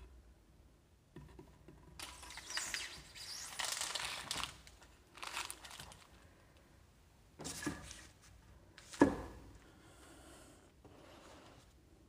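Small pieces of scrap wood being handled and set down, with rustling through the first few seconds and a sharp wooden knock about nine seconds in.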